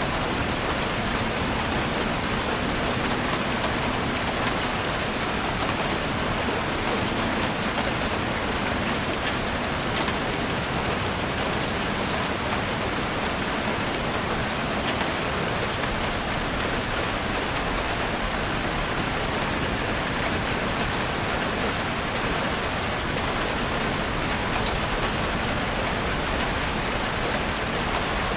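Heavy rain falling steadily on a roof, a dense even hiss with fine drop ticks throughout.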